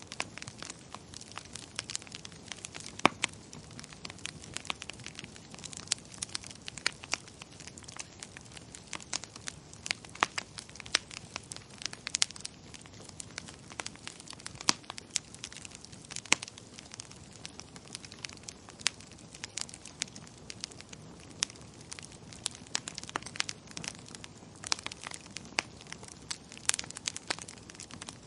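Wood fire crackling in a fireplace: frequent irregular sharp pops and snaps over a low steady hiss.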